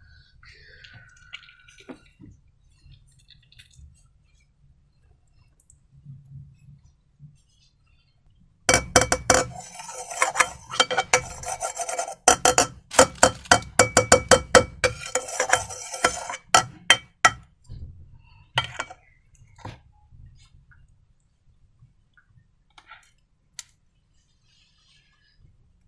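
A utensil clinking and scraping against a hard bowl in quick repeated strokes, as when slime ingredients are stirred. The strikes start abruptly about nine seconds in, run for about eight seconds with a short ring on each, and end in a few scattered clicks.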